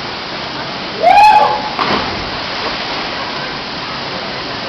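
Steady rushing of a 15 m waterfall, with one loud, held human call about a second in.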